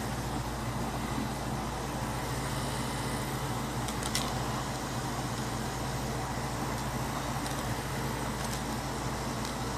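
Steady low hum and hiss of background noise, with one faint click about four seconds in.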